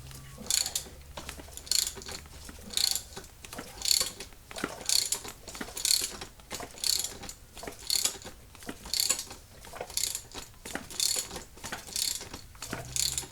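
Ratchet wrench backing off the threaded center rod of a coil spring compressor, a short burst of ratchet clicks about once a second, stroke after stroke, as the compressed coil spring's tension is released.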